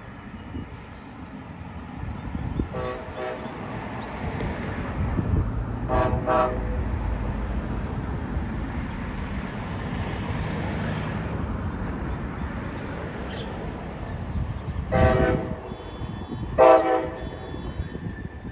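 Train horn sounding four short blasts: two about three seconds apart, then two more about a second and a half apart near the end. The horn is heard over the low rumble of a train.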